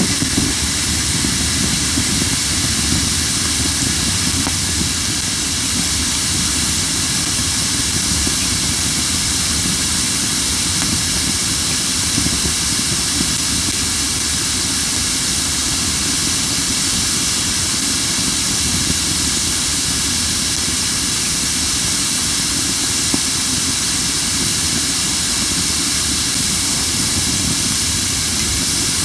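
Crape myrtle firewood burning, giving off a strong, steady hiss with hardly any crackling, over a low rumble: the wood still holds moisture and burns the way green wood does.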